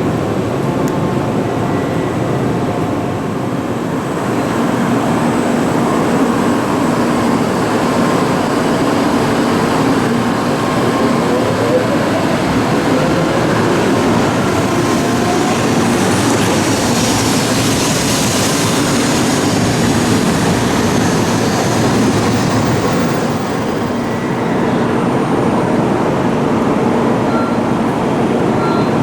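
Steady running noise of an N700 series Shinkansen train, heard from inside the passenger car. A faint rising whine comes in about eleven seconds in, and a stronger hiss swells in the middle.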